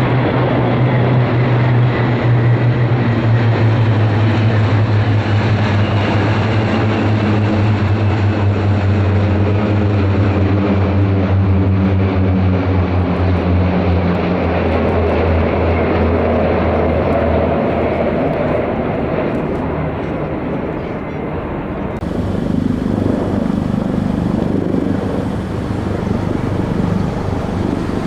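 Propeller-driven military aircraft flying past overhead: a loud, deep propeller drone that sinks slowly in pitch as it goes by. The tone dies away about two-thirds of the way through while a rushing engine noise carries on.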